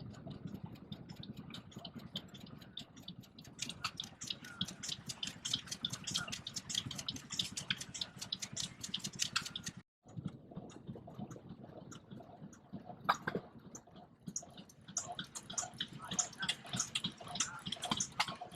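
Vintage stationary engine running, with a rapid, uneven ticking clatter over a low rumble. The sound drops out for a moment about ten seconds in, then carries on.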